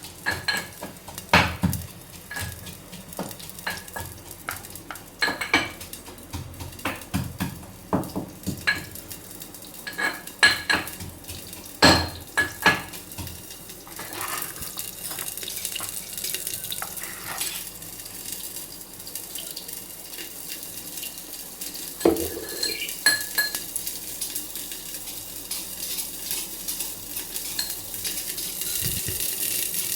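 Metal utensils clinking and scraping against a cooking pot, sharp ringing knocks for the first half. After that, frying in hot oil sizzles, a hiss that grows louder toward the end.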